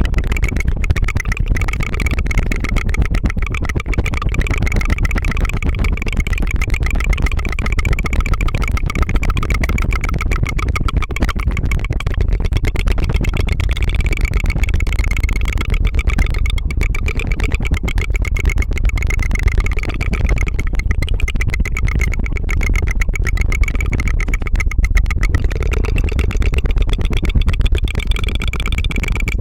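Tongue fluttering into a close ASMR microphone: a fast, continuous rattling trill of the tongue that sounds like a small engine putt-putting, unbroken throughout.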